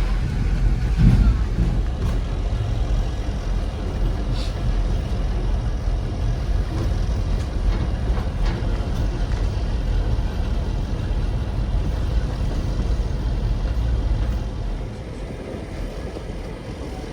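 Kuranda Scenic Railway train running along the track, a steady low rumble heard from aboard the carriage. It drops somewhat near the end.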